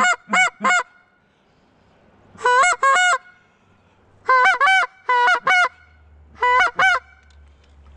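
Goose call blown in quick runs of loud honks, broken by short pauses, calling to geese overhead.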